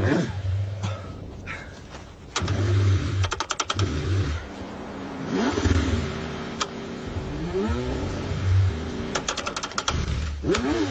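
Car engine cranking in the cold and trying to catch, with bursts of rapid clicking and pitch that rises and falls over a low, uneven rumble.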